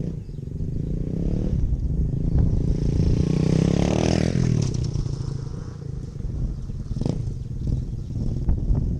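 Dirt bike engine revving as the bike rides past: its pitch and loudness climb to a peak about four seconds in, then drop as it moves away. A sharp knock comes about seven seconds in.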